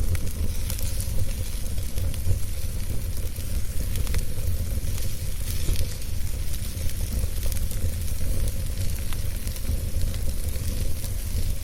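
Wood fire burning steadily, with a low rumble and many small crackles and pops scattered through it.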